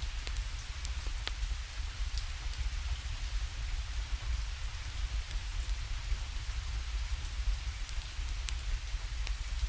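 Steady rainfall with a low rumble underneath, mixed with scattered sharp crackles from a wood fire.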